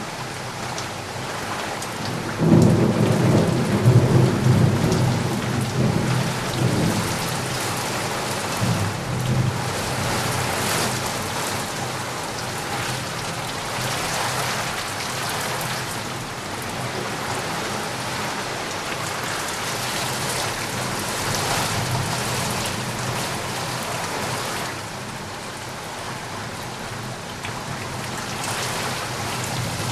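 Steady rain falling, with a roll of thunder that breaks in suddenly a few seconds in and rumbles for several seconds before fading. Another low rumble of thunder builds near the end.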